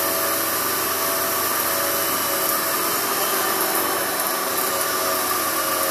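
Kenmore 600 series bagless upright vacuum cleaner running steadily, a constant motor whine, while it is pushed over carpet to pick up sand.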